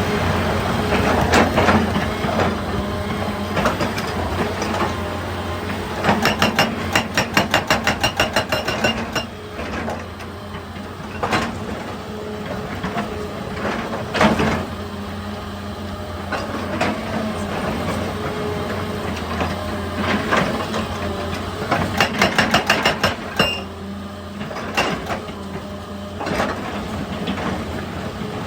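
Excavator's diesel engine running steadily while a hydraulic breaker hammers rock in two runs of rapid blows, about five a second, with a few single knocks between them.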